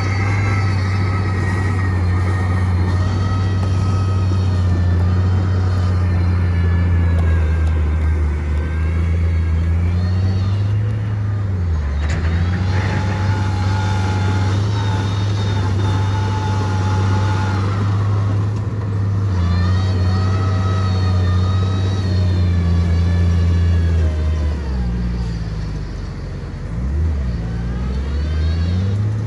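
Diesel engine of heavy earthmoving machinery running hard, with a steady low drone whose pitch sags briefly about eleven seconds in and several times near the end as the load changes. Higher whining tones waver above the engine.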